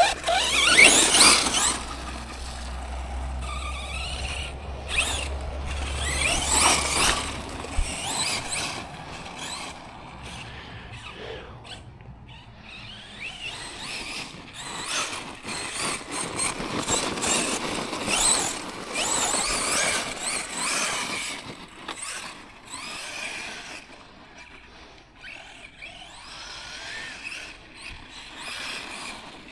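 Tekno MT410 2.0 electric 1/10-scale monster truck being driven, its motor and drivetrain whining high, rising and falling in bursts with the throttle.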